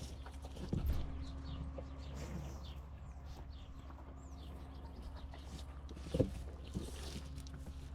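Bulls feeding on corn silage, with a sharp knock about a second in and a louder one about six seconds in, from hooves or heads against the trough, over a steady low hum. Faint short bird chirps come in the middle.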